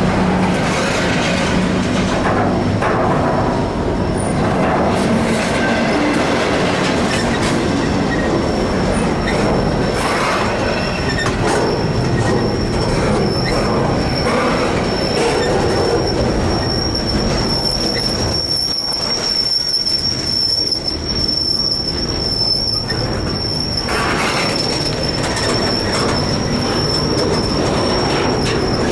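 Freight train cars rolling past on the rails, loud and steady, with a high thin wheel squeal that sets in about a quarter of the way through and fades near the end.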